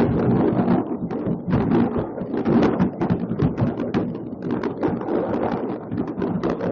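Many fireworks going off at once across a city, a continuous barrage of overlapping bangs and crackles.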